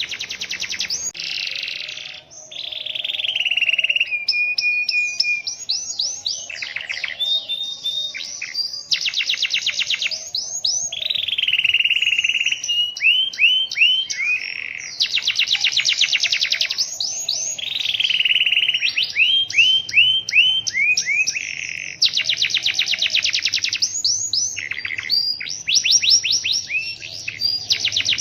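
Domestic canary singing a long, unbroken song of fast rolls, rapid runs of repeated notes, broken up by sweeping phrases, with barely a pause.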